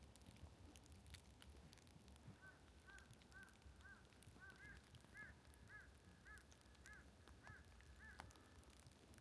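A bird calling faintly in a series of about a dozen short, rising-and-falling notes, roughly two a second, stopping a second before the end.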